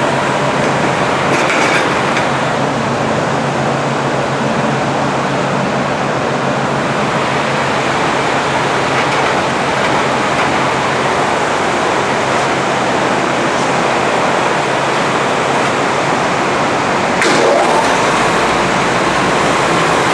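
Forrest Model 236 bandsaw running, its 5/8-inch scallop-edge blade cutting through a tall stack of rebonded foam: a steady rushing noise over a low hum, a little louder about three seconds before the end.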